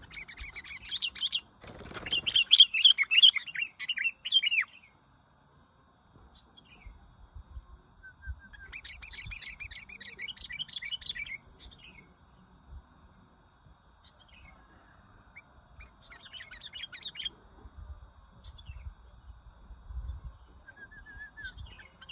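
Small songbird chirping in rapid, high trilling bursts. The loudest burst comes in the first few seconds, with another about nine seconds in and a short one near seventeen seconds.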